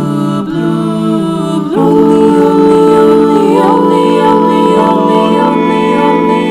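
Unaccompanied choir singing sustained chords without words; about two seconds in the voices move to a louder, fuller chord.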